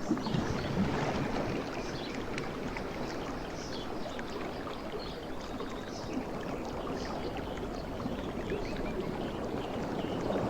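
Sea waves washing on a shore: a continuous rush of surf with fizzing foam, easing off in the middle and swelling again near the end.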